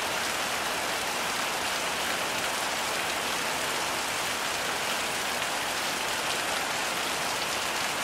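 Heavy rain falling steadily, an even hiss of drops on surfaces with no change in level.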